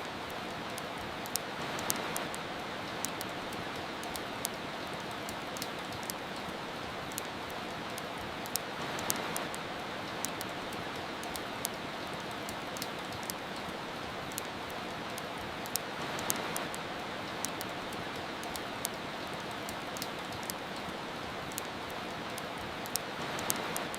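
Steady rain hiss with the sharp crackles and pops of a wood fire scattered irregularly through it. The rain swells slightly about every seven seconds.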